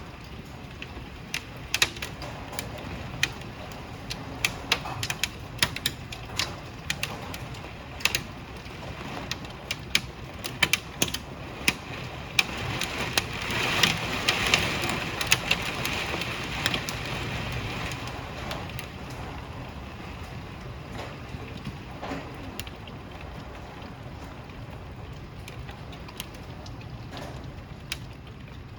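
Hailstones clattering on hard surfaces amid heavy rain: a steady rush of rain with scattered sharp knocks of individual stones. It swells louder about halfway through, then eases.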